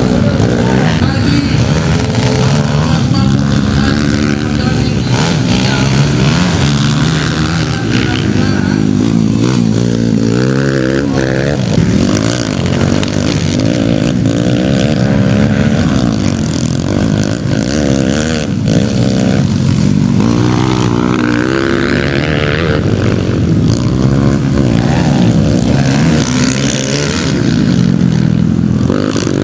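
Motocross bike engines running loudly, rising and falling in pitch as they rev up and back off.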